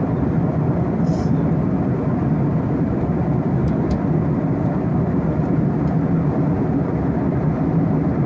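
Steady low rumble of a moving vehicle, an even running noise with no distinct events.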